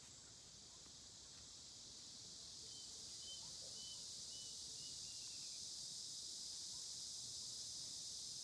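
Steady high-pitched chorus of insects, swelling over the first few seconds, with a bird giving a quick run of about six short chirps in the middle.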